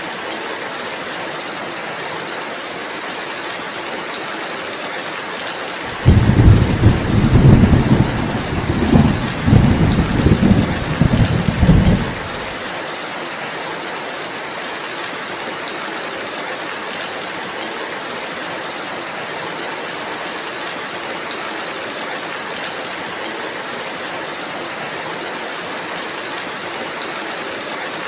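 Steady rain falling, with a loud roll of thunder that starts abruptly about six seconds in and rumbles in several swells for about six seconds before fading back into the rain.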